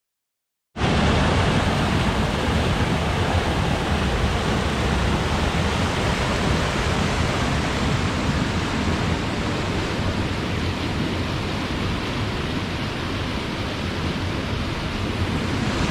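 Waterfall roaring, a steady rush of falling water that starts abruptly about a second in.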